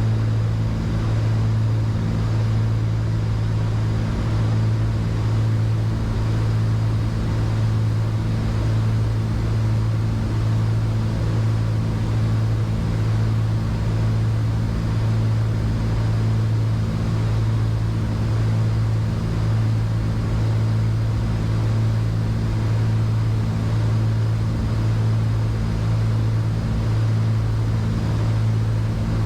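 Twin piston engines and propellers of a Cessna 310Q droning steadily in flight, heard in the cockpit: a constant low hum with an even rush of noise over it.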